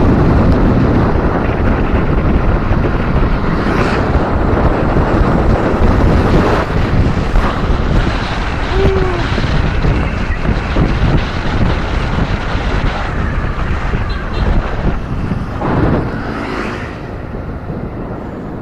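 Wind rushing and buffeting on the microphone of a bicycle rider coasting downhill at speed, loud and steady, with a few brief louder swells.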